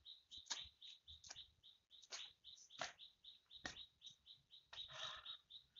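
Faint bird chirping, one short high note repeated several times a second, with soft sharp knocks about once a second.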